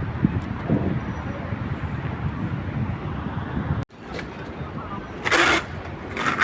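City street ambience: a steady hum of traffic with distant voices. It cuts out for an instant about four seconds in, then two short, loud hissing noises come near the end.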